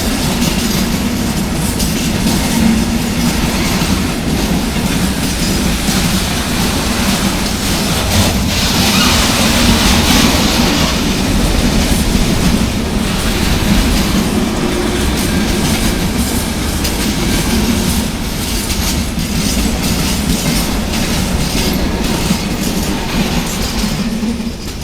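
Long mixed freight train rolling past: a steady rumble of the wagons with repeated wheel clicks over the rail joints. A high hiss swells and fades about nine to eleven seconds in.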